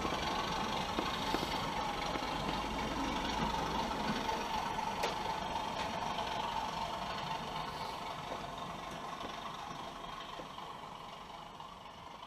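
The DCC sound of an OO gauge model diesel train: its engine running steadily, gradually fading away over the second half.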